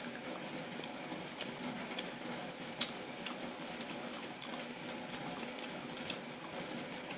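Close-up mouth sounds of someone chewing chicken noodles with fried shallot topping: scattered soft clicks and smacks over a steady background noise.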